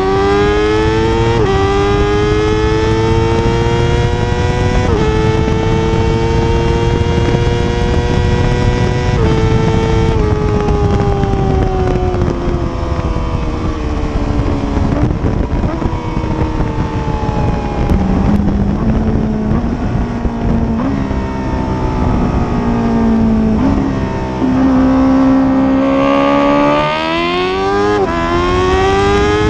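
Honda CBR1000RR-R SP's inline-four engine running under way, its pitch jumping in abrupt steps at gear changes. The revs sag slowly through the middle, then climb steeply again near the end.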